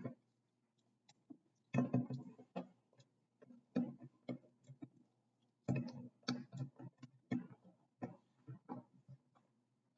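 Faint, irregular plastic clicks and taps of a plastic action figure being handled, as a hand is swapped and pressed onto its wrist peg.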